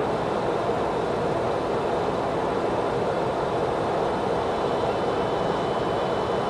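Steady rushing noise of a Boeing 737-200 in flight during its descent, with the throttles pulled back: airflow and engine noise at a constant level.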